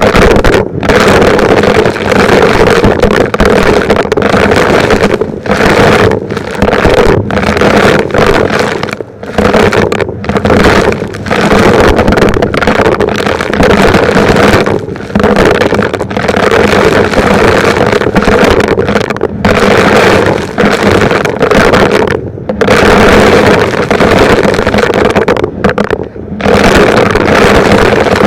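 Vacuum cleaner running with a steady motor hum and rush of suction air, the sound dipping briefly every second or two.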